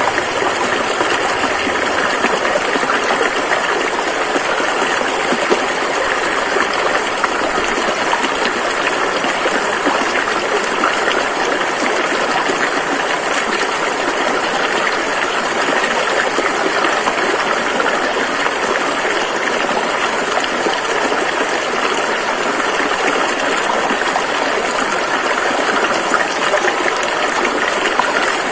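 Rushing river water flowing steadily, an even, unbroken wash of noise.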